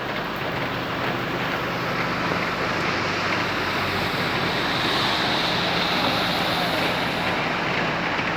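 Heavy rain pouring down steadily, an even dense hiss.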